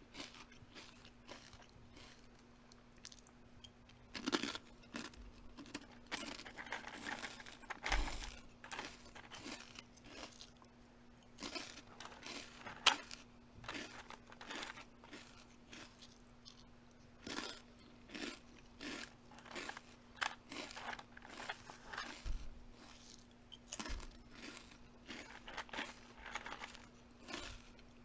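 Close-up crunchy eating: irregular sharp bites and chewing crunches, with short pauses between them.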